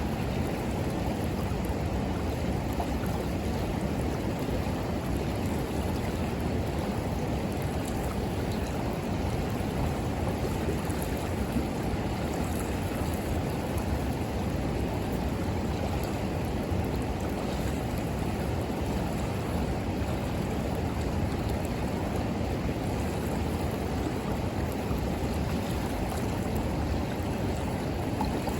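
River water flowing steadily, a constant low rush, with a few faint crackles from a wood bonfire.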